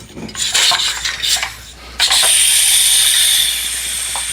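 Stovetop kettle hissing with steam: a steady hiss with a faint high whistle starts abruptly about halfway through. A few short clattering sounds come before it.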